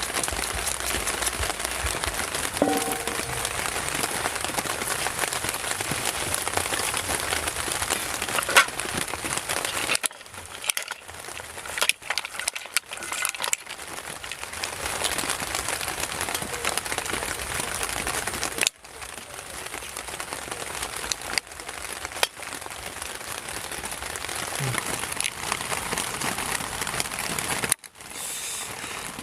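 Heavy rain falling steadily, with a crackling patter. The sound cuts out abruptly a few times.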